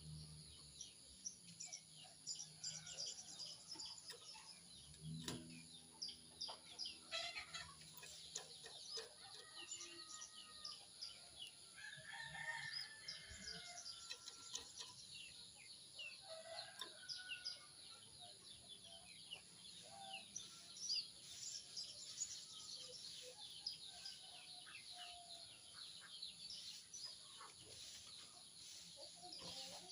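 Faint bird chorus: many small birds chirping in quick, high, overlapping notes. A rooster crows about twelve seconds in.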